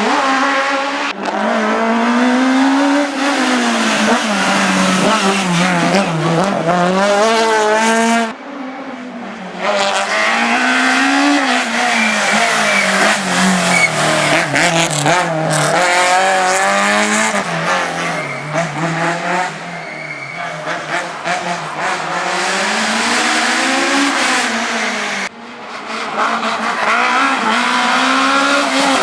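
Race car engine revving hard and falling back over and over as it is driven through slalom chicanes, its pitch climbing and dropping in waves with sharp lifts off the throttle about 8 seconds in and again near the end.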